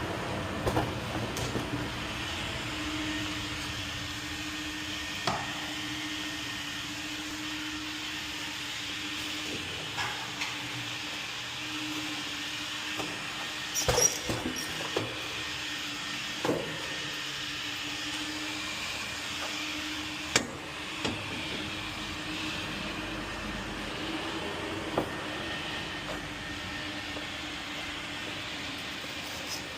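A steady machine hum holding one tone, with a hiss over it, and scattered sharp clicks and knocks, a cluster of them about halfway through.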